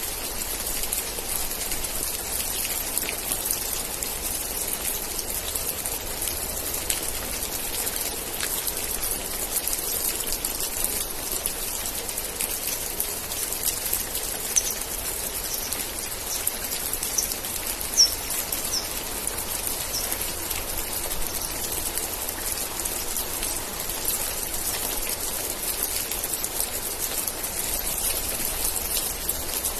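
Steady rain falling, with many individual drops pattering on a surface. A few short high chirps come midway, the loudest about eighteen seconds in.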